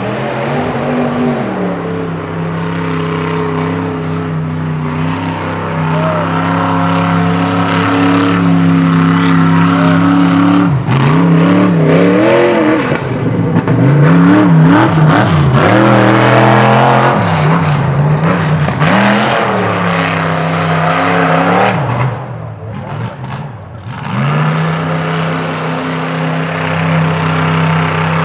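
Mud truck engine running loud and hard through a mud bog, holding a steady pitch at first, then revving up and down over and over. It eases off briefly past two-thirds of the way through before pulling steady again.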